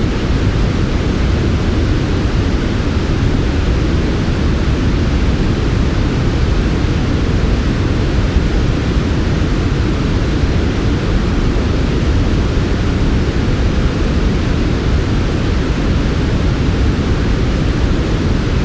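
Steady synthetic white noise shaped soft and smooth: a heavy low rumble with a gentler hiss above it, even and without change.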